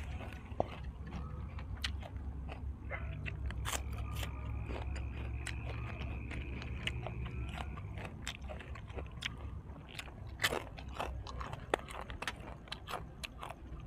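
Close-miked eating of fried dried squid: chewing and biting with many short, sharp mouth clicks and crunches scattered irregularly.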